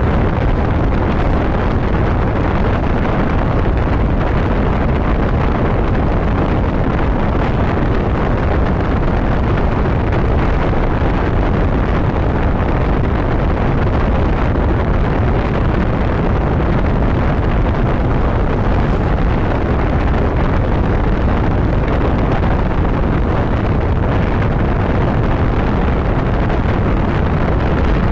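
Steady wind rush on the microphone of a motorcycle being ridden at road speed, with the bike's engine and tyre noise blended into it.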